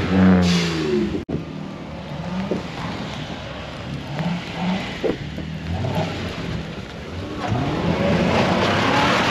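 Car engine revving, its pitch falling and rising several times, louder again near the end, with a brief dropout about a second in.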